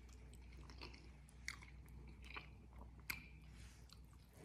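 A man biting and chewing meat off a rib: faint wet mouth smacks and clicks, a few sharp ones standing out.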